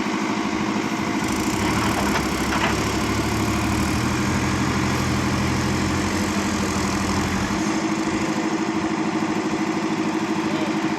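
Tractor diesel engines running steadily. A second, deeper engine note joins about a second in and drops away after about seven seconds.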